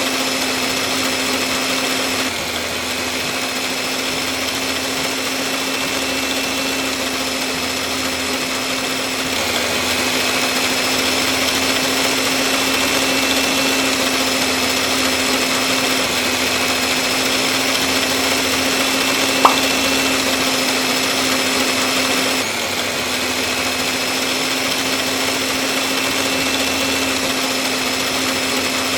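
Small electric motor running steadily with a high whine, its pitch and level shifting slightly a few times, and one sharp click about two-thirds of the way through.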